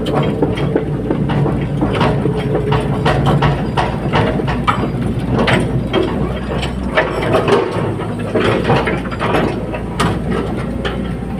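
Hydraulic excavator at work: its diesel engine runs steadily under a string of irregular metallic clanks and knocks.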